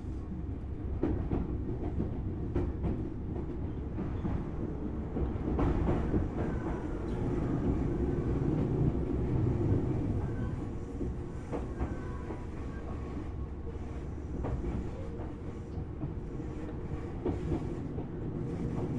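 Tobu Railway Series 6050 electric train heard from inside a motor car while running: a steady rumble of wheels and running gear with scattered clicks of wheels over rail joints, growing a little louder near the middle.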